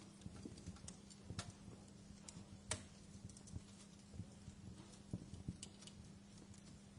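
Wood fire in a fireplace crackling faintly, with scattered sharp pops at uneven intervals, the loudest a little under three seconds in, over a low rumble and a steady low hum.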